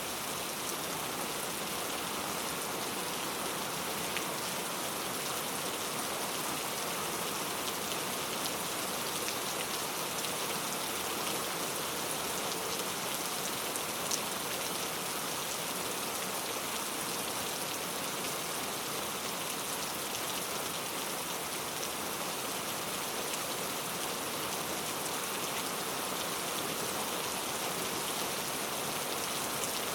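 Steady rain falling: a dense, even hiss of countless drops, with one louder tick about halfway through.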